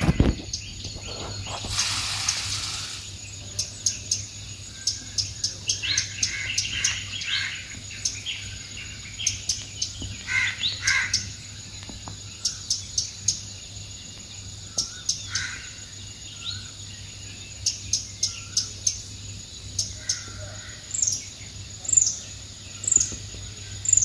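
Small wild birds chirping and calling, short high chirps scattered throughout, with a few short falling chirps about once a second near the end. A brief rustling noise about two seconds in.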